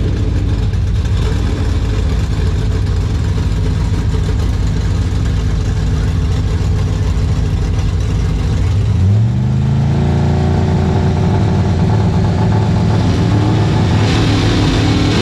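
Drag-racing pickup truck engine running with a steady low rumble; about nine seconds in its note rises and then holds higher as the engine revs up.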